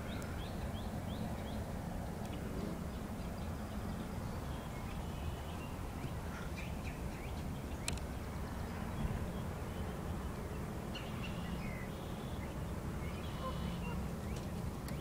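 Birds chirping in short scattered calls, a quick series of them at the start and more later on, over a steady low rumble. A single sharp click about halfway through.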